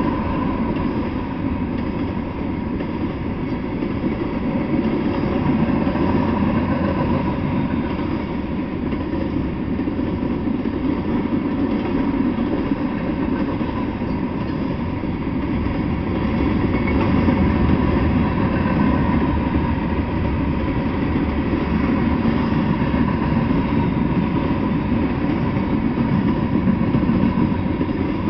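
Freight train of covered hoppers and tank cars rolling past: a steady rumble of steel wheels on the rails that carries on without a break.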